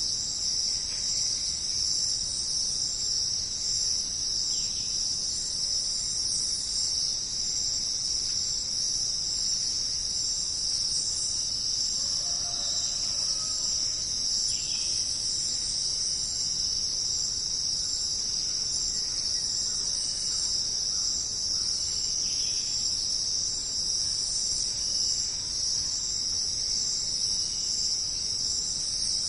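Steady, high-pitched chorus of jungle insects trilling without a break, with faint short calls over it every few seconds.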